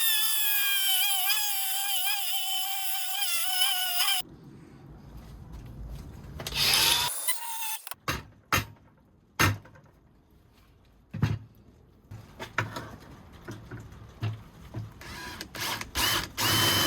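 Angle grinder cutting metal plate: a steady whine that wavers with the load for about four seconds, then stops abruptly. After that come scattered sharp knocks and clicks and a short rasping burst.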